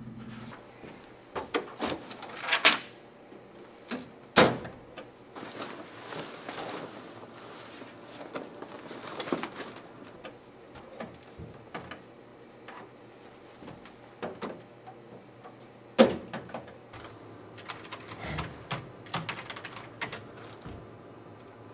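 Irregular knocks and clicks, as of objects being handled, with a few louder knocks among quieter ones.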